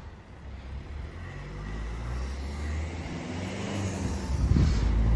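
A road vehicle's engine, most likely the rail replacement bus, running and drawing closer, growing steadily louder. Wind starts buffeting the microphone about four and a half seconds in.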